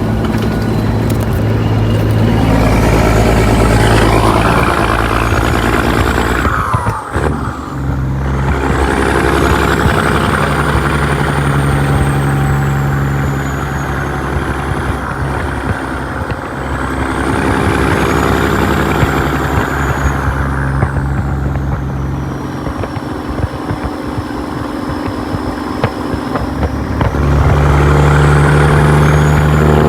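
Caterpillar 3406E (6NZ) diesel in a 1998 Peterbilt truck running hard under load, with a turbo whistle rising and falling over the engine note. The engine sound breaks off briefly about seven seconds in, as at a gear change.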